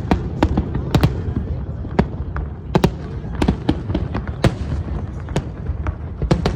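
Aerial fireworks display: an irregular series of sharp bangs, about two a second, over a steady low rumble.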